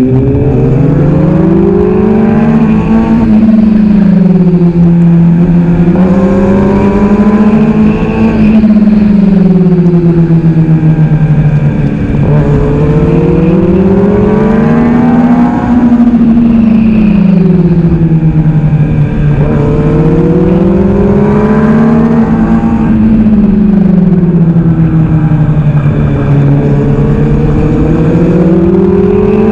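600cc sport bike engine heard onboard at racing pace, its pitch climbing hard on each acceleration and falling away as the rider rolls off for the next corner, again and again through the lap, over a steady rush of wind.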